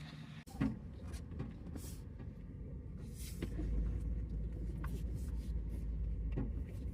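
Low rumble of a vehicle under way, heard from inside, with scattered clicks and rattles; it starts after a sudden break about half a second in and builds slightly.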